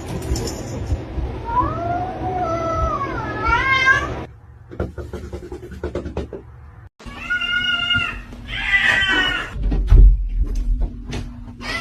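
Domestic cats meowing and yowling insistently, demanding to be let through a closed door: several drawn-out calls that rise and fall in pitch. A dull low thump comes about ten seconds in.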